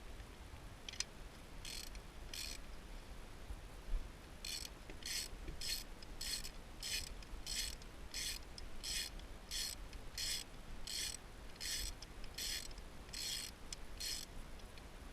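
Hand ratchet wrench being worked back and forth, its pawl rasping on each back-swing. There are two strokes early, then a steady run of about fifteen, roughly one every two-thirds of a second.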